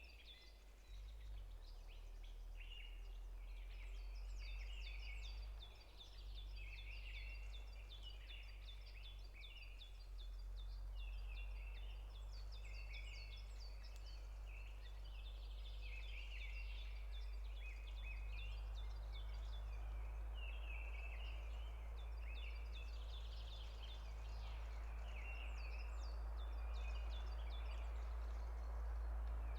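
Many forest songbirds chirping and trilling at once, short calls overlapping all the way through, over a steady low rumble.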